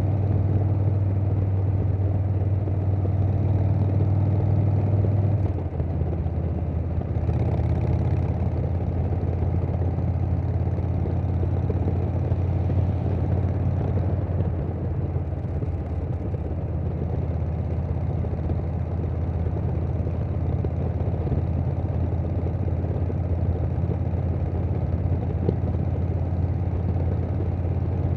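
Harley-Davidson Softail's Milwaukee-Eight V-twin running through a Vance & Hines Big Radius 2-2 exhaust with no tune, pulling steadily while riding, with wind noise. About five seconds in the engine note drops a little and then holds steady.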